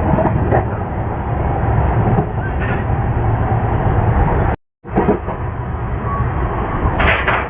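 MEMU electric commuter train running, a steady noise of the coach and wheels on the track heard from on board. The sound cuts out completely for a fraction of a second past the middle, then carries on, with a brief clatter near the end.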